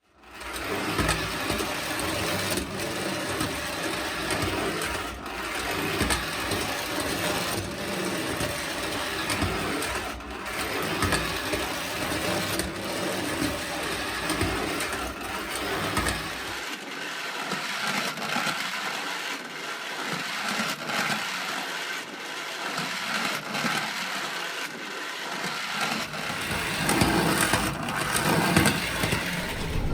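Postwar Lionel maintenance car, a small motorized toy train unit, running along the track with the steady whir of its electric motor and gearing. About two-thirds of the way through, the deep rumble drops out while the running noise continues.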